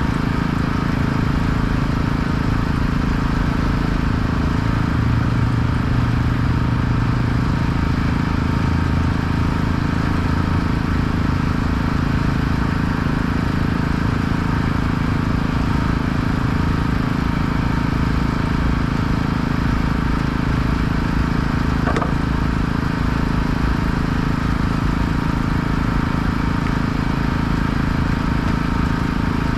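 An engine running steadily at a constant speed, a continuous low drone.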